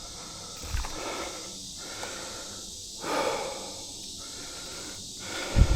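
A person breathing, with one louder breath about three seconds in, over a steady hiss. There are short low thumps just under a second in and again near the end.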